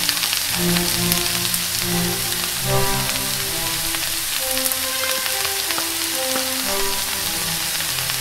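Sliced mushrooms, onions and snow peas sizzling in hot oil in a frying pan, a steady crackling hiss. Background music plays over it.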